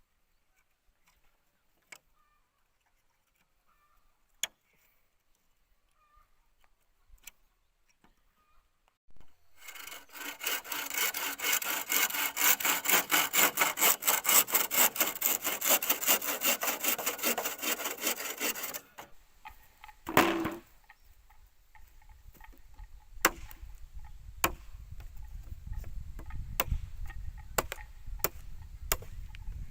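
Hand saw cutting with fast, even back-and-forth strokes, about five a second, for roughly nine seconds starting about ten seconds in. Before it there are only a few faint clicks, and after it come scattered sharp knocks and taps over a low rumble.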